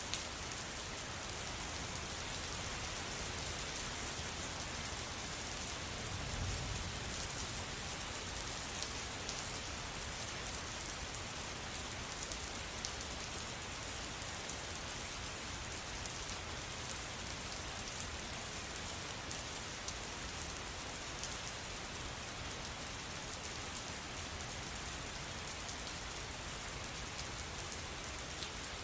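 Steady rain with many separate drops ticking on a surface, and a brief low rumble about six seconds in.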